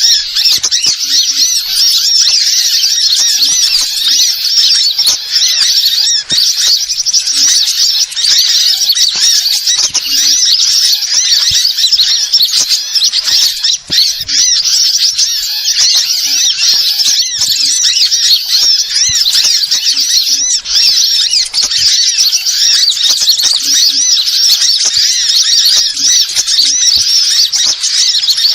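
Dense, continuous high-pitched twittering and chirping of many small birds, from a bird-call recording played as a lure to attract wild birds.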